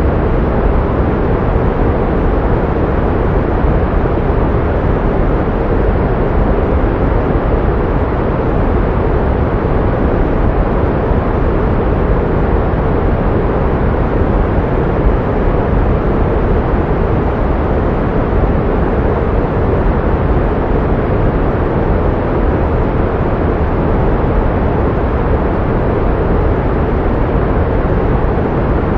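Steady pink noise: a deep, even hiss that never changes, strongest in the low end with little treble, played as sound therapy to mask tinnitus.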